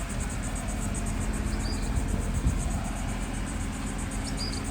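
Outdoor background: a steady low vehicle rumble with a faint hum, under insects buzzing in a fast, even pulsing high note.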